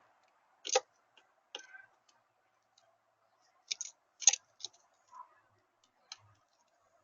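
A series of sharp, irregular clicks and taps, about eight in all, the loudest a little over four seconds in, over a faint steady hum.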